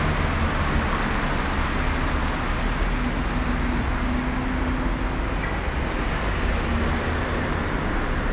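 Steady outdoor traffic noise: an even hum of passing road vehicles with a low rumble, and no distinct single event.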